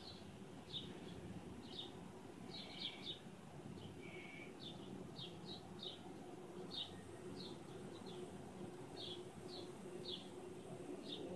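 Short, high bird chirps repeating about once or twice a second, over a low steady background of outdoor noise.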